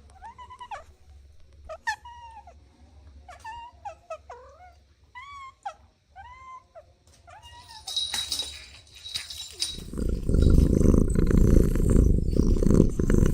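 A kitten mewing repeatedly in short, high, arching calls, about one a second. About two-thirds of the way in, a loud, rough low rumble takes over.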